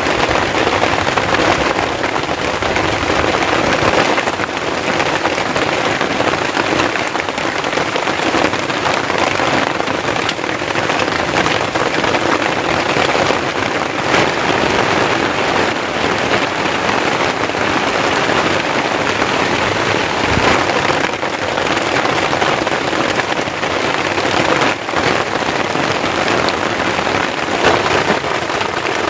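Heavy rain falling steadily, a dense, even hiss of drops pattering on surfaces.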